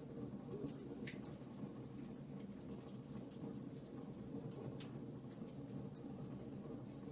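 Wood fire in a fireplace crackling: many small, sharp pops and snaps over a steady low rush, with two louder pops about a second in and near five seconds.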